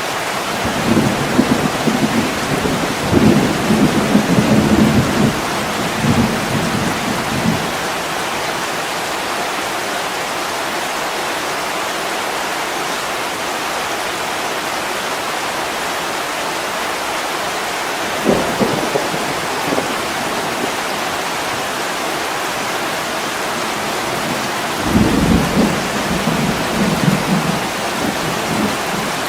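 Heavy rain falling on window glass, a steady dense hiss, with low rolls of thunder: a long one over the first seven seconds or so, a brief one a little past halfway, and another from about 25 seconds in.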